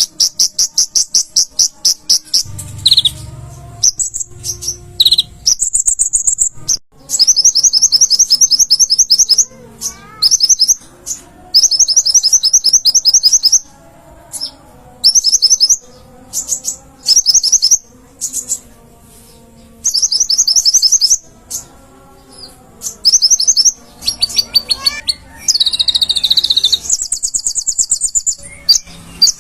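A konin (kolibri ninja, the olive-backed sunbird) singing: loud, rapid high-pitched trills of very fast repeated chirps, delivered in bursts of one to two seconds with short pauses between them.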